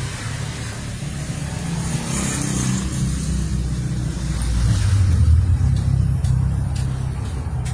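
Low rumble that builds to a peak about five seconds in and then eases off, with a few faint clicks.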